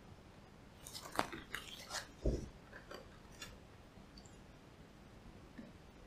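A person chewing string cheese, with a cluster of small clicks and rustles and one soft low thump about two seconds in.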